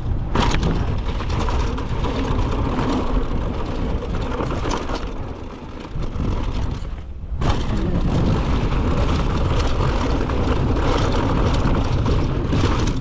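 Mountain bike rolling along a dirt trail: wind rushing over the microphone, mixed with tyre noise and the bike rattling. It eases off briefly about six seconds in, then picks up again.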